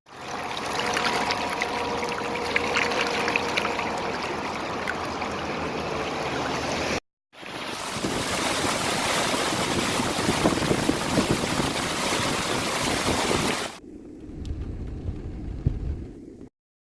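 Loud rushing water from rain runoff, a steady rush that breaks off for a moment about seven seconds in and turns much quieter near the end.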